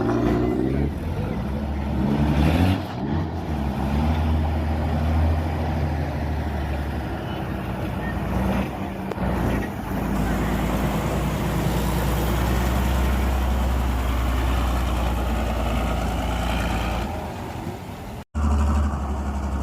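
Heavy truck diesel engine of a Tatra truck trial truck, revving up early on and then running hard at a steady pitch, with a short dip about halfway. The sound cuts off for an instant near the end and comes straight back.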